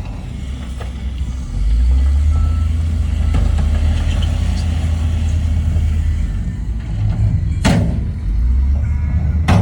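Heavy diesel earthmoving machinery running under load, its low engine rumble getting louder about a second and a half in. Two sharp metallic clanks near the end.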